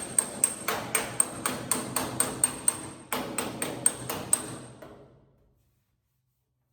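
Hammer striking the sheet-metal panel of a squarebody Chevy truck bed about four times a second, each blow ringing with a high metallic ping, knocking down a high spot in the panel. The blows stop about five seconds in.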